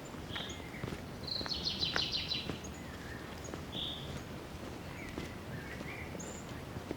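Forest birds calling: short high chirps, with one rapid trill about a second and a half in, over faint footsteps and a steady outdoor background hiss.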